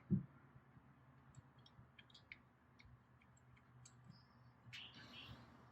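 A dull thump just after the start, then faint scattered clicks and light taps of parts and tools being handled during turbo and exhaust fitting.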